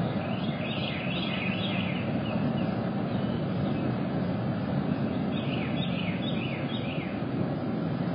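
Outdoor ambience: a steady low rumble, with a bird calling in two bursts of quick repeated chirps, one near the start and one past the middle.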